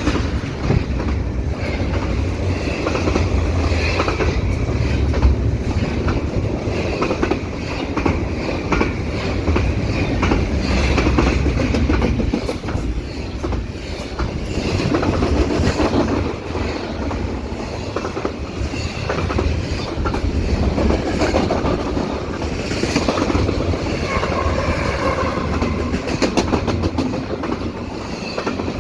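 CP double-stack intermodal freight train passing close at speed: a steady rumble of wheels on rail with a running clickety-clack of wheels over rail joints.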